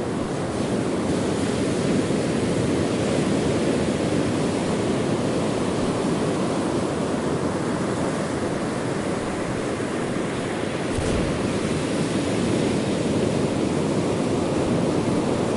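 Ocean surf: waves washing continuously onto a shore, a steady rushing wash that swells gently now and then.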